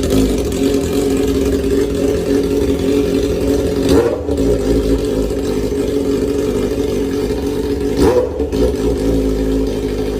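Yamaha R6 inline-four motorcycle engine with an aftermarket exhaust idling, with two short throttle blips about four seconds apart.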